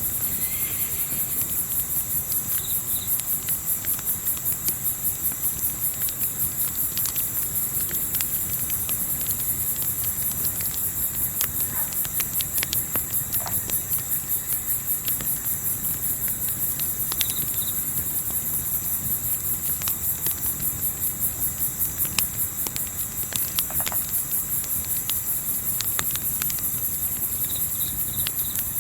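Crickets chirping in a dense, high, steadily pulsing trill, over a crackling campfire with scattered sharp pops and a low rumbling bed.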